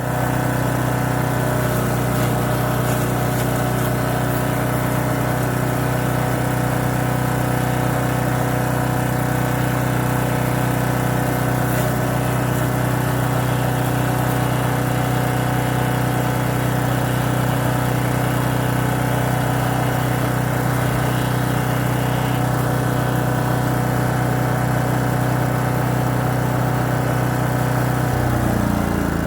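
Champion 224cc wood chipper's single-cylinder gas engine running steadily at speed, a constant loud hum with its pitch shifting near the end.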